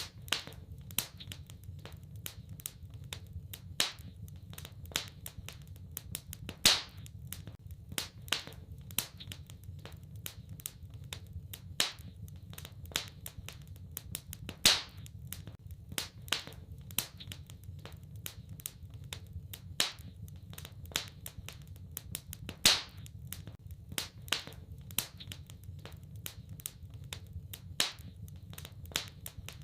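Wood fire crackling in a fireplace: a steady scatter of small sharp snaps, with a few much louder pops about eight seconds apart, over a low steady rumble.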